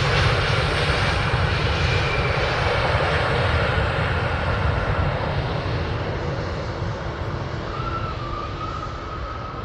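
Embraer E190 twin-jet airliner on landing at the runway, its engine rumble and fan whine slowly fading as it moves away.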